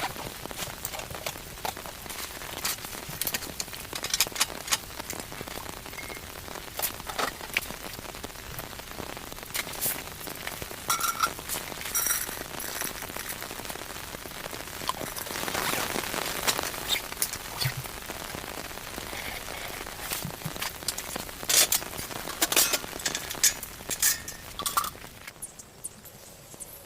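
Rain pattering steadily, with many sharp clicks and pops scattered through it.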